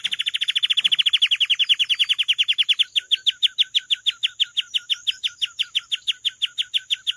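Domestic canary singing a rapid trill of short repeated notes, about fourteen a second. About three seconds in the trill changes to a slower series of about six notes a second.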